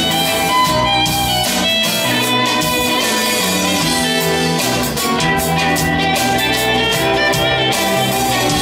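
A band playing an instrumental passage, with guitar prominent over held notes and chords.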